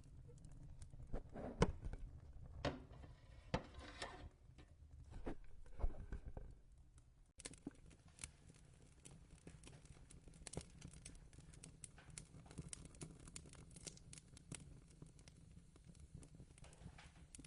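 Soft handling sounds of crocheting: rustling yarn and light knocks for the first seven seconds. After a sudden cut they give way to faint scattered clicks over a low steady hum.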